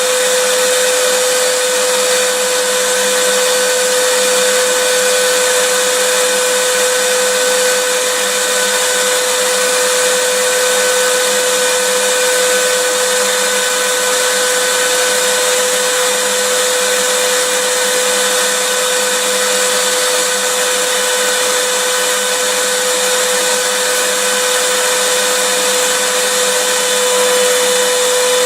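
Vacuum cleaner motor running steadily, a constant hiss of rushing air with a steady whine under it.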